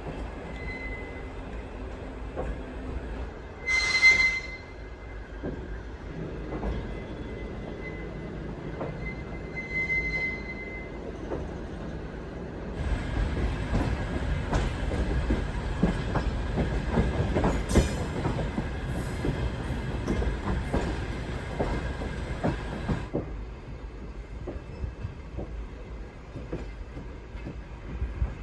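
Railway carriage wheels squealing and rumbling on the rails as a train moves. A thin squeal comes and goes, a brief loud squeal sounds about four seconds in, and a louder stretch of rumbling and clatter runs from about thirteen to twenty-three seconds.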